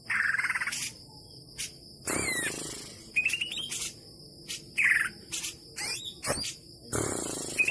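Cucak ijo (green leafbird) singing a varied master song of short separate phrases: sharp chirps, looping whistles and fast rattling trills, about one every half second to a second, with a long rattling trill near the end. A steady high whine runs underneath.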